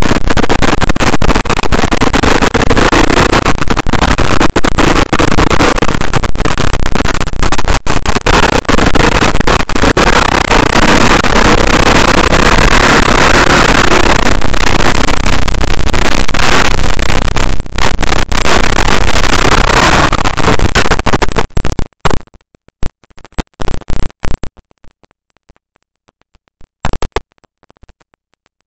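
KTM dirt bike engine running hard on a sandy hill climb, picked up by a bike-mounted camera and so loud that it is overloaded and crackling. About 22 seconds in the sound cuts out, leaving only scattered short crackles.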